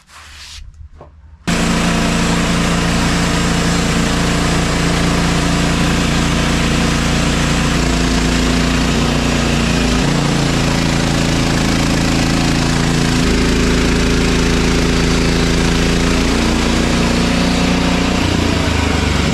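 Gas engine of a Woodland Mills portable band sawmill running hard while the band blade cuts through a log, starting abruptly about a second and a half in. The engine note is steady with small shifts in pitch as the load on the blade changes.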